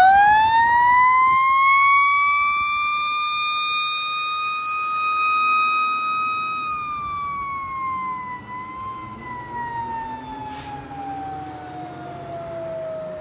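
Fire engine siren winding up quickly to a high, steady wail, holding it, then winding slowly down in pitch over the second half.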